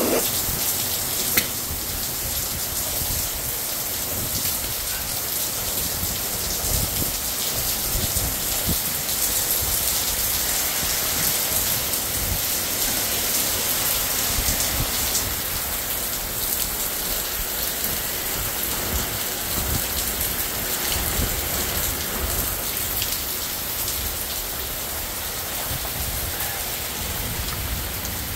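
Heavy rain falling steadily on pavement and buildings, a dense, even hiss of drops, with one sharp tap about a second in.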